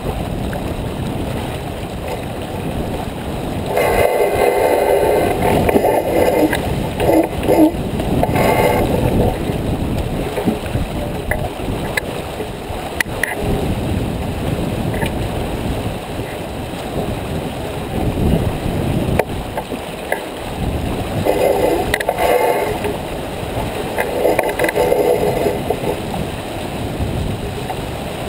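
Wind rumbling on the microphone and water washing along the hull of a J/24 sailboat under way, with two louder, rougher stretches, one about four seconds in and one a little past twenty seconds.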